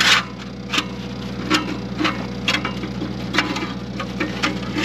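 Hammer blows on the steel of a snowblower fan shroud, about six evenly spaced strikes roughly a second apart, as the bent metal is banged back out. A steady low hum runs underneath.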